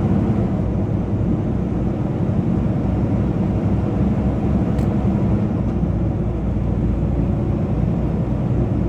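Inside a semi-truck cab, the PACCAR MX-13 13-litre diesel engine running steadily with road noise, a constant low rumble.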